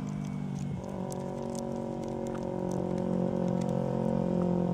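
Moped engine running at a steady pitch, growing gradually louder over the last couple of seconds.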